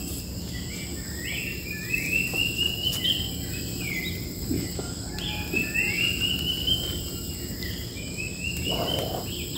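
A wild bird singing, repeating a short rising whistled phrase again and again, over the steady high ringing drone of insects.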